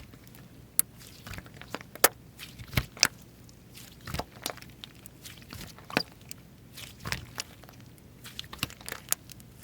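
Slime being squeezed, poked and stretched by hand, giving irregular sharp clicks and wet pops.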